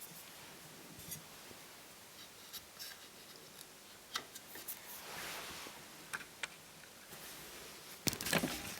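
Small clicks and taps of hand work on laptop parts, with a short scraping sound about five seconds in and a cluster of louder clicks near the end.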